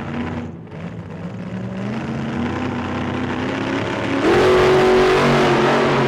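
Car engine revving under acceleration. Its pitch climbs in steps, then jumps to a loud, high, steady run about four seconds in.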